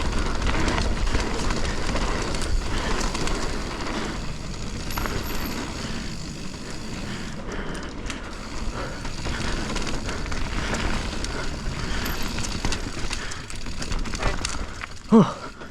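Mountain bike ridden fast down a dirt trail: steady rush of tyres and air, with frequent rattles and knocks from the bike over bumps. A short vocal grunt or gasp from the rider near the end.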